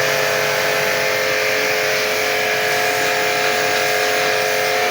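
Electric pressure washer running steadily while washing an air conditioner: an even motor hum with a constant hiss of spray.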